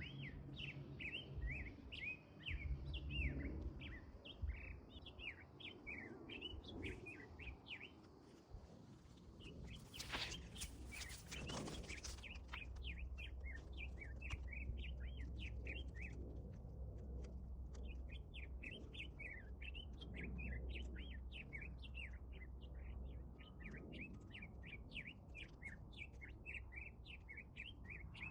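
Small birds chattering in quick, continuous chirps, several a second, with a pause about ten seconds in where a short burst of noise takes over before the chirping resumes. A steady low rumble runs underneath.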